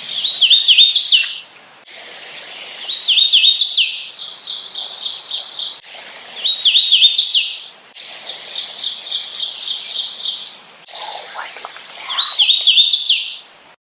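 Hooded warbler singing four times: each song is a quick run of slurred whistled notes ending in a higher, emphatic phrase. Between the songs come quieter runs of rapid, evenly repeated high notes.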